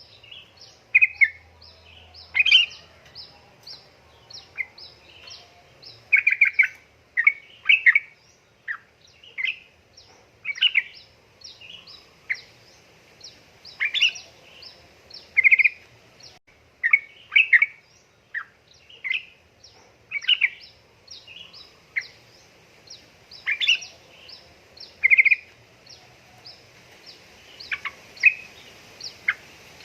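Yellow-vented bulbuls (trucukan) calling: loud, short bubbly chirps and phrases come every second or so over a steady run of faint high chips, about two a second.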